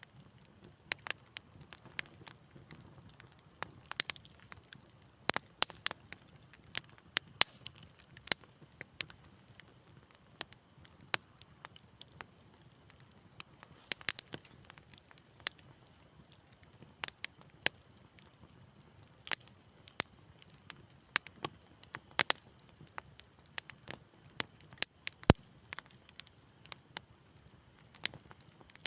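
Wood fire crackling: irregular sharp pops and snaps, a few a second, some much louder than others, over a faint low hiss.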